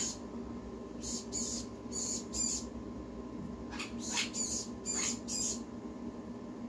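Baby sun conure chick giving short, high-pitched begging cheeps in quick runs of two or three, about a dozen in all, over a steady low hum.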